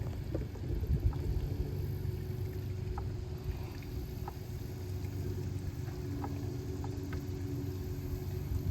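Boat motor running steadily at low speed, a low even hum.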